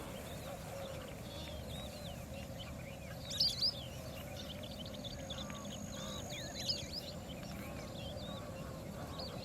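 Small birds chirping, many short high calls, over a steady background hiss. A few louder chirps come about a third of the way in and again past the middle.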